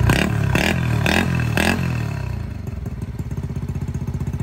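Honda CL50-style motorcycle's 100 cc engine given four quick throttle blips in the first two seconds, each rev dropping back, then settling to a steady idle.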